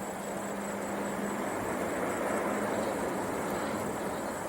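Jet airliner engines running: a steady rushing noise with a low hum, swelling slightly about halfway through.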